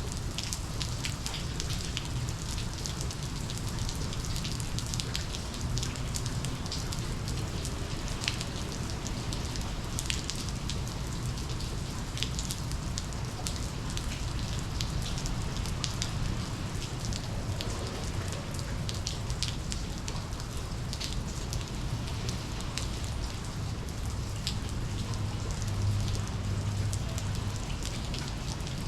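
Steady monsoon rain, with many sharp individual drops clicking against nearby surfaces over a low, even rumble.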